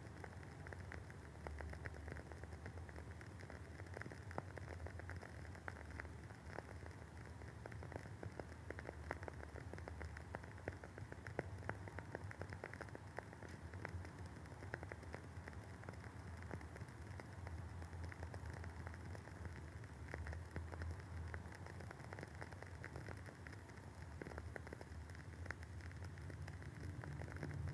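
Wooden wick of a Woodwick candle burning with a soft, continuous crackle of many small pops, over a faint low hum.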